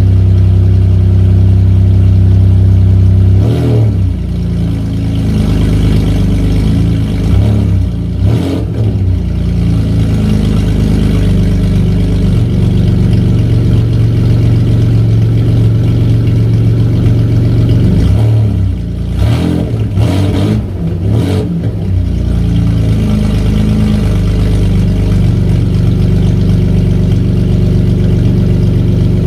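The freshly rebuilt Vauxhall Vectra GSi engine is running on its first start-up, idling steadily. The revs rise and fall briefly a few times: about three seconds in, again near eight seconds, and in a short cluster about two-thirds of the way through.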